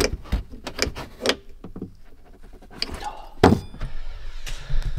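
Irregular clicks and knocks of things being handled, with a louder thunk about three and a half seconds in.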